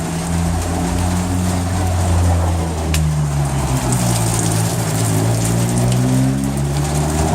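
Steady rain with an engine humming low throughout, its pitch dropping and then rising again in the middle.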